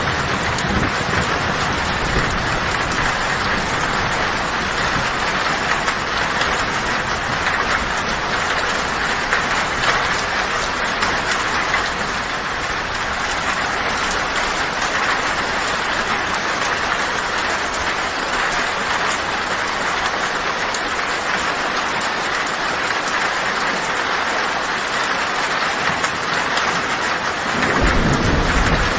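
Heavy rain falling on a tin roof, a steady dense hiss. A low thunder rumble comes in near the end.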